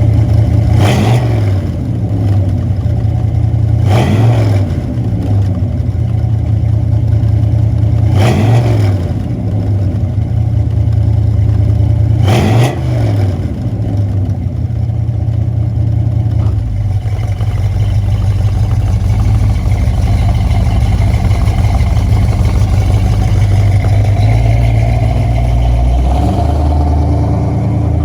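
1972 Corvette Stingray's 350 V8 through a Flowmaster exhaust, blipped four times, each rev rising sharply and falling back, then left running at a steady idle for the second half.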